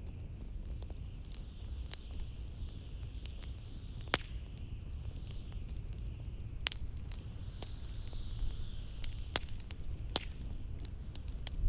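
Wood fire crackling in a fireplace, with sharp irregular pops, over a steady low rumble and a wavering high howl of blizzard wind that swells in the middle.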